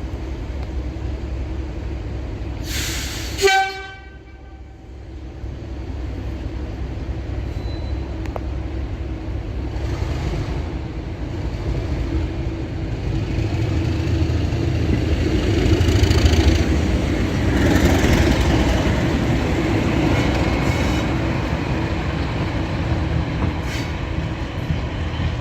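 Diesel locomotive running under power, with one short horn blast about three seconds in; after the horn the engine grows steadily louder to a peak past the middle, then eases a little.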